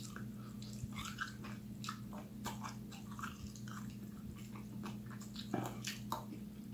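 A person biting into a sauce-coated buffalo chicken wing and chewing it, a run of small mouth clicks and crunches. A steady low hum runs underneath.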